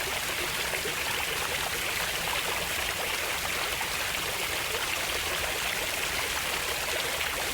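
Running water, a steady rush with fine splashing and trickling detail, like a stream.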